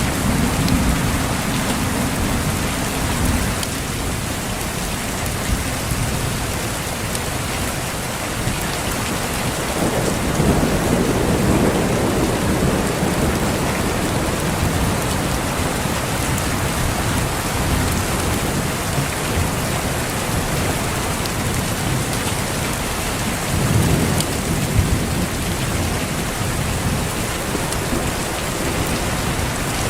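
Heavy rain falling steadily, with rolling thunder rumbling low under it: one rumble at the start, another about ten seconds in, and a third later on.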